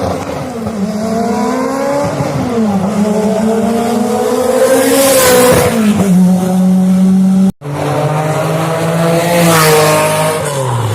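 Rally car engines revving hard, the pitch climbing and falling as they shift and pass close by. A second car takes over after a sudden cut about two-thirds of the way through, and its pitch drops near the end.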